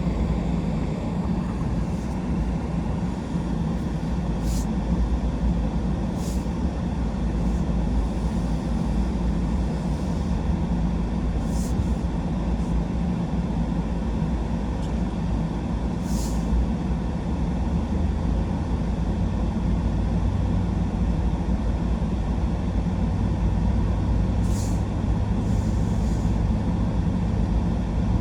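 Truck driving at a steady speed: a continuous low engine and road rumble, with a few faint brief clicks.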